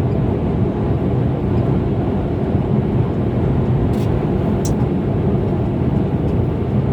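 Steady engine and road rumble of a moving truck, with two faint brief ticks about four seconds in.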